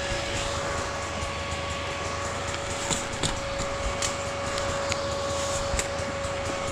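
A motor running with a steady, unchanging whine, with scattered sharp clicks and knocks over a constant rumble.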